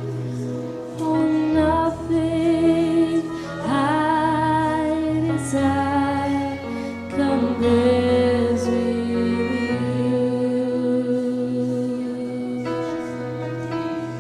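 Slow worship music: a female voice singing long, wavering held notes over sustained keyboard chords.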